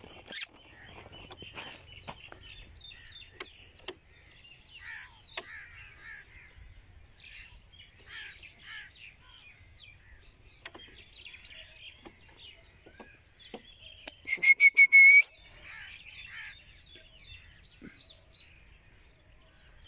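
Many small birds chirping and calling. About three-quarters of the way through comes a loud, rapidly pulsing trill on one high pitch, lasting about a second.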